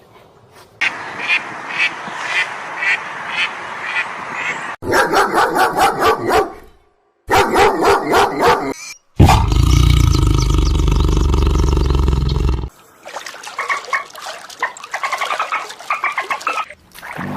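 Animal calls from several short clips, cut abruptly one after another: repeated calls about twice a second, then bursts of fast rapid calls. In the middle there is a loud, low, noisy stretch of about three and a half seconds.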